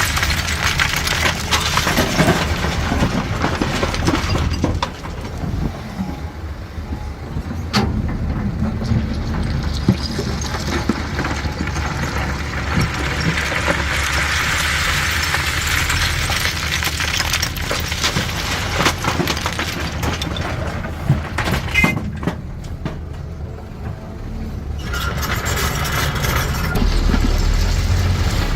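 Caterpillar 320D hydraulic excavator's diesel engine running under load, with stone clattering and knocking at scattered moments as rock is dug and dumped. The engine dips briefly near the end, then rises again.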